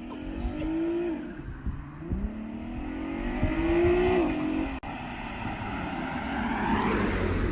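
Sixth-generation Chevrolet Camaro RS engine revving up and dropping back twice, then held at high revs for a burnout, with a growing hiss of tyre noise rising near the end.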